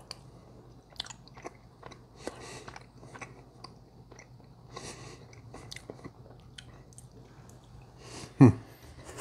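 A person chewing a mouthful of grilled paddlefish with soft wet mouth clicks and short breaths through the nose, over a faint steady hum. About eight seconds in comes a brief, louder vocal sound that falls in pitch.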